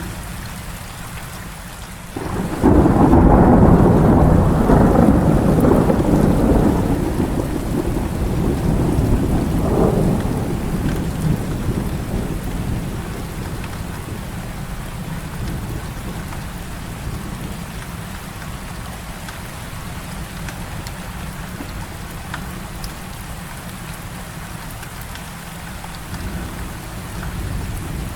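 Steady heavy rain with a sudden thunderclap about two seconds in. The thunder rolls on as a loud, deep rumble, swells once more around ten seconds and slowly dies away under the rain.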